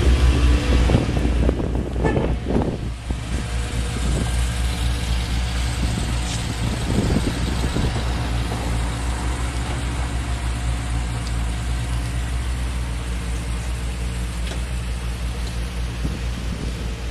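Car engine running loudly at first, then settling into a steady, even idle that slowly fades.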